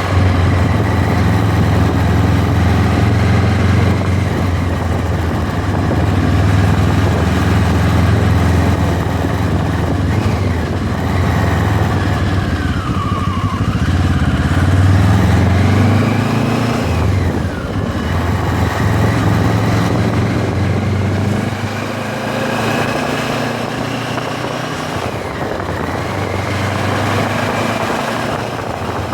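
MZ 1000 motorcycle's parallel-twin engine running under way as it is ridden. The revs rise and fall several times in the middle as the throttle changes, then settle to a steadier note.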